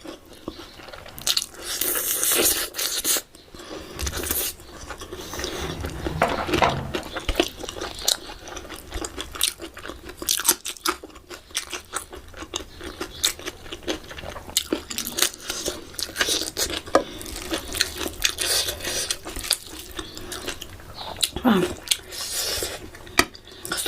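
Close-miked eating of spicy mutton ribs: biting and chewing with many short, sharp clicks throughout.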